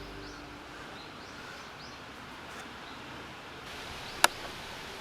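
Quiet outdoor ambience with a few faint bird chirps, then a single sharp click a little over four seconds in.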